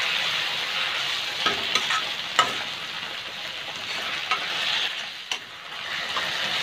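Chopped onion and tomato sizzling in hot oil in a kadhai, stirred with a slotted steel spatula that scrapes and clicks against the pan several times.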